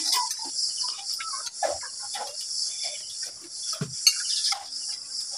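Steady high chirring of a cricket and insect chorus, with scattered light clicks and knocks of dishes and eating.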